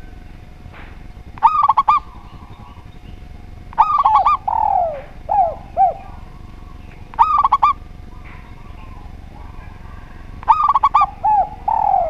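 Spotted dove and zebra dove cooing. About four bouts of quick, stuttering high coos come roughly every three seconds, some followed by lower, drawn-out falling coo notes.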